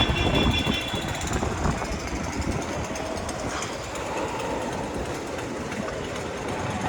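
Ride noise on a motorcycle moving through city traffic: wind buffeting the microphone over road and engine noise, with a brief high-pitched tone in the first second or so.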